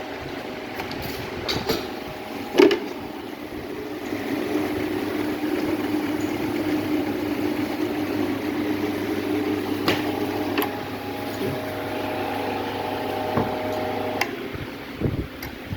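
Used motorcycle engine running steadily, with several sharp clicks or knocks over it, the loudest about two and a half seconds in; part of the hum drops away about fourteen seconds in.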